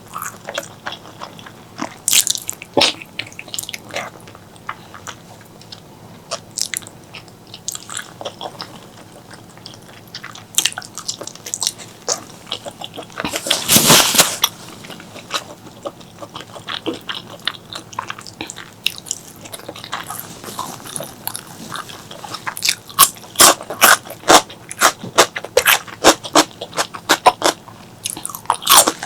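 Close-miked eating of pork leg curry and rice: biting and chewing with many sharp mouth clicks. About halfway through there is one louder noisy sound lasting about a second, and near the end the chewing clicks come thick and fast.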